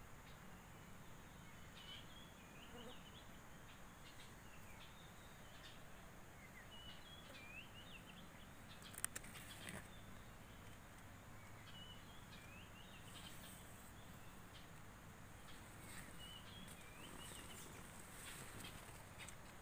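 Faint chirping of small birds: short twittering calls repeating again and again, with a couple of sharp clicks about nine seconds in.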